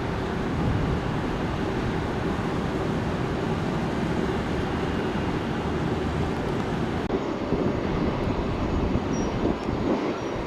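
Jet airliner engines rumbling steadily, a deep even roar with a faint hum running through it.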